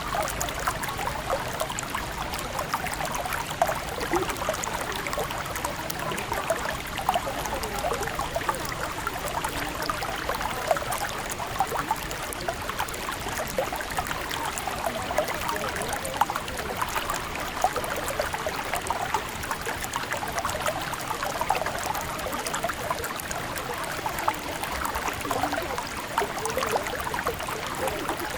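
River water flowing steadily, with a continuous babble of small splashes and gurgles.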